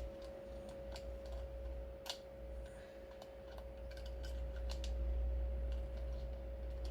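Irregular small clicks and ticks, as of parts or tools being handled, over a steady faint hum with a single held tone.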